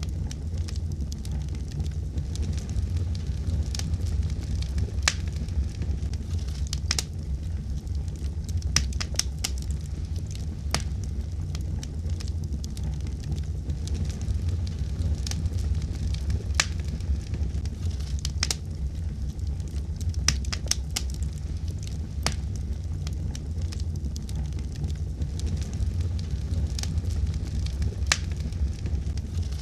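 Wood fire crackling in a fireplace: irregular sharp pops and snaps, several a few seconds apart, over a steady low rumble of the flames.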